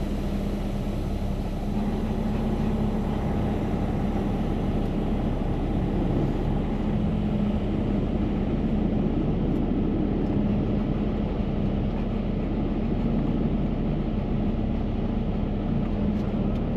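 Steady low rumble and hiss with a constant hum during a semi-truck wash: the truck's diesel engine idling under the noise of the wash.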